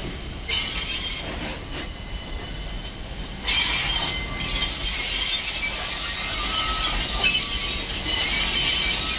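New York City subway train of R68-series cars moving slowly, its steel wheels squealing against the rails in several high, held whines that grow louder about three and a half seconds in.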